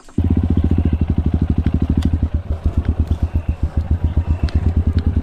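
Motorcycle engine starting and settling into a steady idle with a rapid, even beat, being warmed up.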